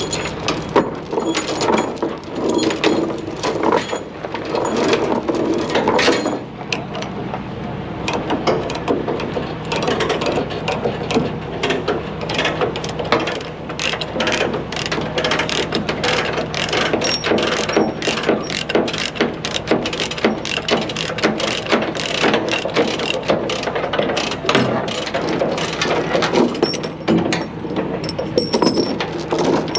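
Tie-down ratchet being worked, clicking rapidly and repeatedly as the pawl runs over its teeth, over the steady hum of an idling engine.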